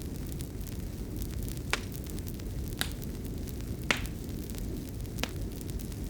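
Fireplace fire burning with a steady low rush and four sharp crackling pops spread through it, the loudest a little before the end.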